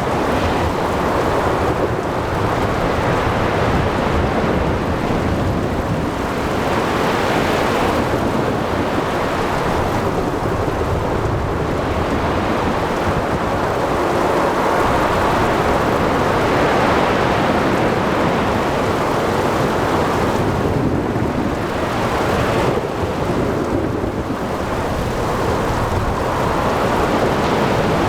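Storm at sea: a continuous dense rush of rain and breaking waves with thunder rumbling underneath, the whole swelling and easing every several seconds.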